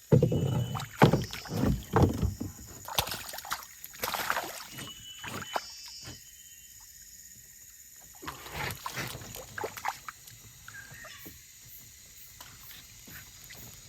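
Water splashing and sloshing around a small sampan, with irregular knocks and thumps against the hull. The splashing is busiest in the first six seconds, comes again briefly around the ninth second, then dies down.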